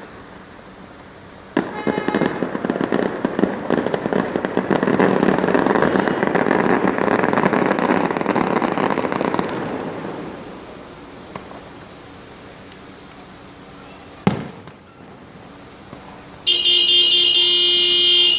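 Fireworks: a dense run of rapid crackling pops starts about a second and a half in and dies away by about ten seconds, followed by a single bang. Near the end a steady horn tone sounds for about two seconds.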